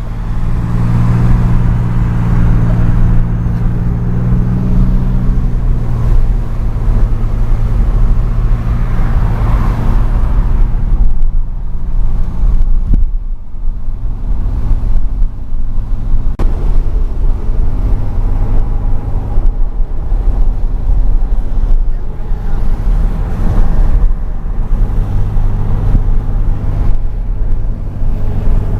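Turbocharged car engine running at a fairly steady speed with road noise, with a brief break about 13 seconds in and a steadier, lower drone near the end.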